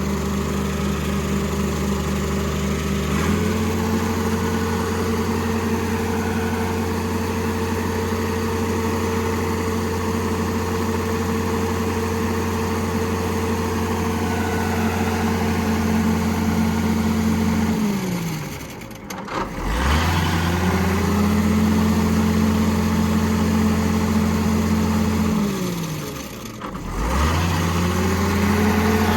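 John Deere motor grader's diesel engine running. About three seconds in it speeds up and holds steady. Twice, about 18 and 26 seconds in, its speed falls steeply and climbs back up within a second or two.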